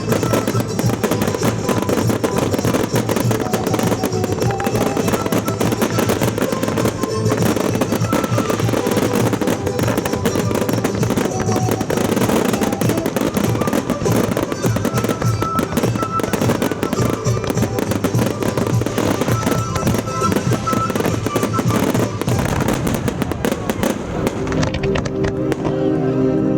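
Fireworks display: dense crackling and popping shell bursts, with music playing underneath. About two seconds before the end the crackle thins out and the music carries on.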